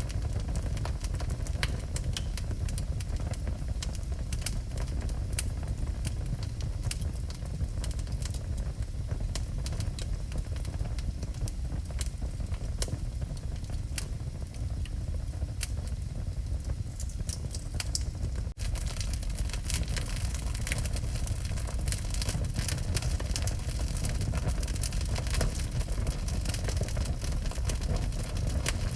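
Wood fire burning in a fireplace: many sharp crackles and pops over a steady low rumble. A brief dropout about two-thirds of the way through, after which the crackling is brighter and busier.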